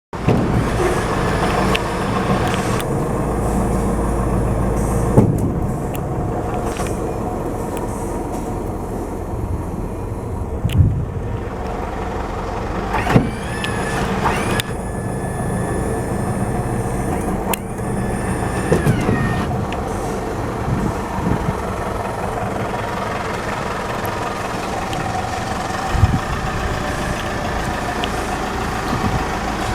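Mitsubishi Fuso Canter light truck's diesel engine idling steadily, with a few sharp clicks and knocks and two brief whines that shift in pitch.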